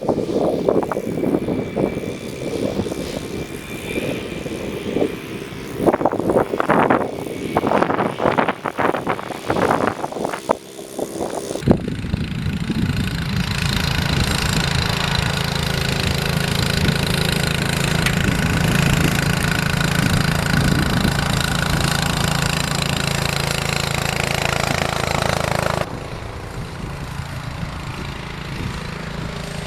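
Uneven, gusty noise for about the first twelve seconds, then an engine running steadily; the engine sound drops suddenly to a quieter level near the end.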